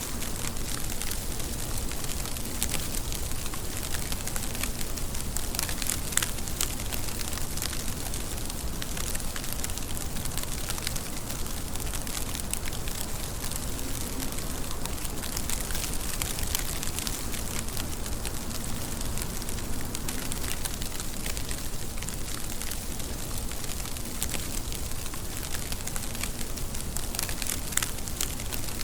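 Steady rain, a dense patter of individual drop hits over an even hiss.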